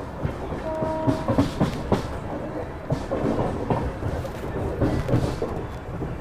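Passenger train coaches running at speed, wheels clattering with irregular knocks over rail joints and points, heard from an open coach door. A short steady tone sounds briefly about a second in.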